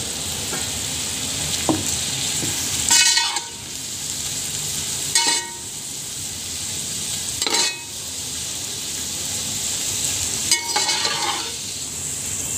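Cabbage, capsicum, carrot and shredded chicken sizzling steadily in hot oil in a steel pot while being stirred with a metal slotted spoon, which scrapes the pot with a short ringing screech four times, every two to three seconds.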